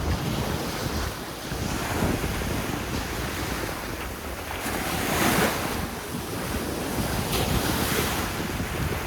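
Sea waves breaking and washing in, with wind buffeting the microphone; one wave swells louder about five seconds in.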